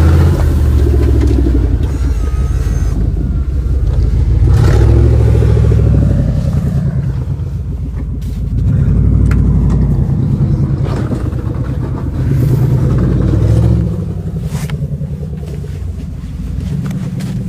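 An engine running steadily, its loudness swelling and easing every few seconds as if working under changing load.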